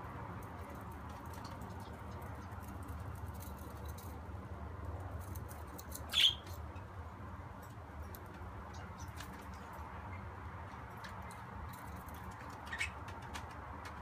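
Budgerigar giving one short, sharp chirp about six seconds in and a softer one near the end, among light scattered ticks and taps, over a steady low hum.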